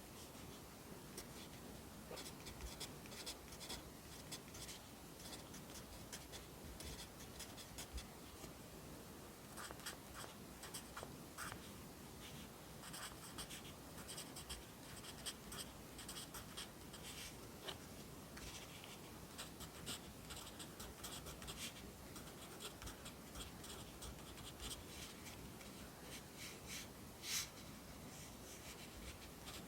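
Pencil writing Korean characters on paper: quick runs of short, scratchy strokes with brief pauses between them, one stroke louder than the rest near the end.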